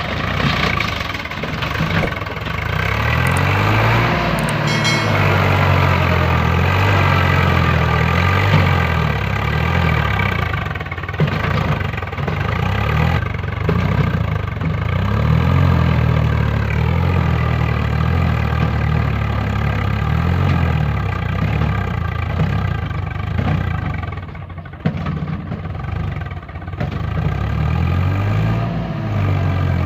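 Tractor engine sound running steadily, its revs rising and falling several times, and briefly quieter a little before the end.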